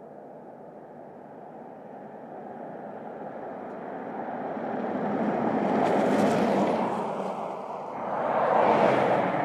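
Cars driving past one after the other, their tyre and engine noise building to a peak about six seconds in, easing briefly, then peaking again near the end.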